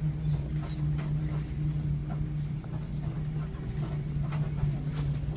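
A vehicle's engine running steadily, a constant low hum heard from inside the cabin, with a few faint ticks.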